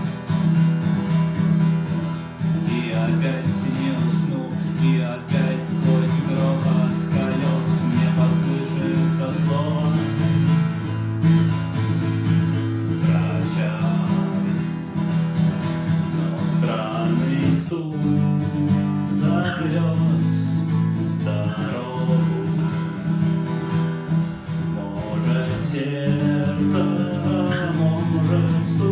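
Acoustic guitar strummed in a steady rhythm, its chords broken up by short, sharp percussive strokes: the muted 'knock' (стук) strumming technique.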